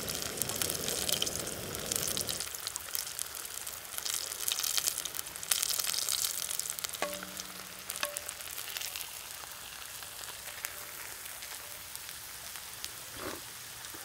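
Squirrel pieces frying in oil in a cast-iron skillet, a steady crackling sizzle. A low rushing noise under the sizzle cuts out about two seconds in. Around seven and eight seconds in, a knife scrapes and clinks against the pan as the pieces are pushed aside.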